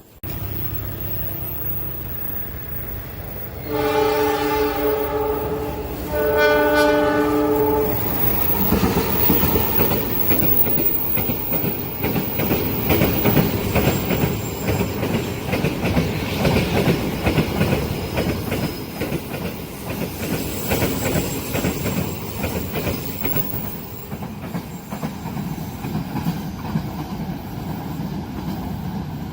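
Train horn sounding two blasts of about two seconds each, a chord of several notes, then a long train passing with a steady rumble and rapid clatter of wheels over the rails.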